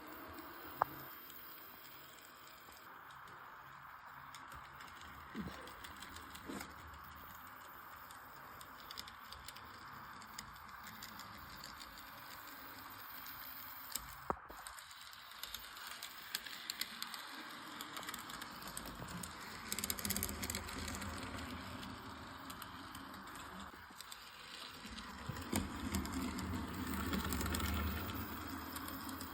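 Model train running on the layout's track: a light mechanical rattle with small clicks, swelling to a louder rumble twice in the second half as the train comes closer.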